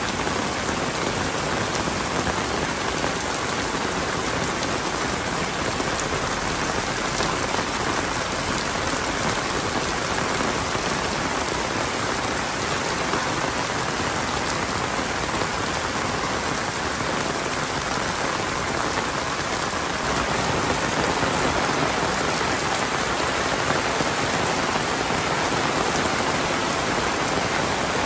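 Heavy monsoon rain pouring steadily onto grass and muddy, puddled paths: a dense, even hiss that grows a little louder about two-thirds of the way through.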